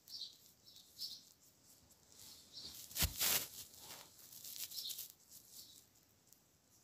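Short, high bird chirps repeating about once a second, with a brief louder hiss about three seconds in.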